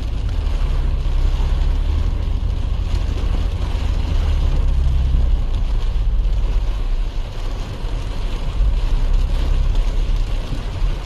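A car driving through floodwater in a storm: a steady, loud low rumble under a continuous wash of water and wind noise.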